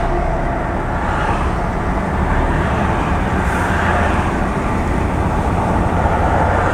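Steady drone of an articulated lorry's diesel engine and running noise heard from inside the cab.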